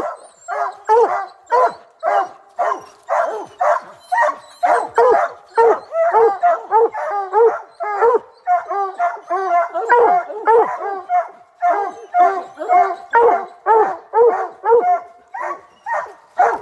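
Hunting dogs barking and baying over and over, about two calls a second, with more than one dog's voice overlapping.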